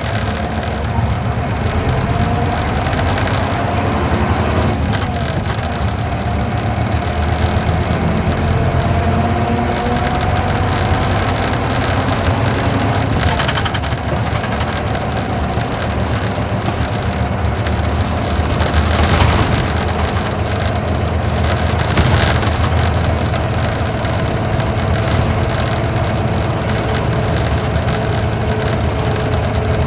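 Isuzu Gala coach's V-type diesel engine running under way, heard from inside the cabin with steady road noise. A whine slowly rises in pitch as the bus gathers speed, and a few brief bumps come from the road.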